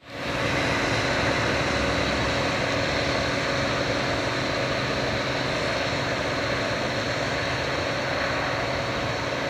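Combine harvester running steadily while harvesting sunflowers, a continuous engine and machinery drone.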